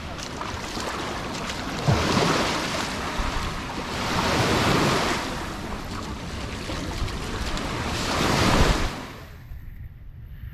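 Sea waves washing onto a beach, rising and falling three times, with wind on the microphone; the sound drops away abruptly near the end.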